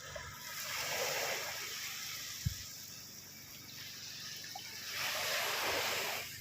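Sea waves washing up onto a beach, in two swells of surf, the second near the end. There is a brief low thump about two and a half seconds in.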